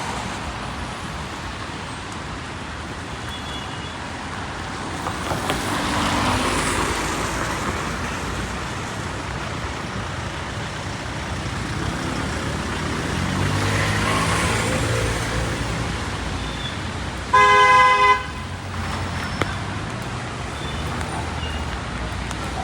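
Street traffic in steady rain: a constant hiss, with two vehicles passing on the wet road, their tyre hiss swelling and fading. About three-quarters of the way through a car horn sounds once, short and loud.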